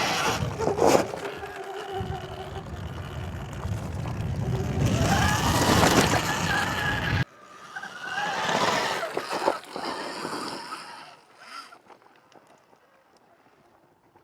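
Sur-Ron Ultra Bee electric dirt bike being ridden, its motor whining with wind and rumble on the microphone; the whine rises around five seconds in. The sound cuts off abruptly about seven seconds in, and a quieter stretch follows that fades away.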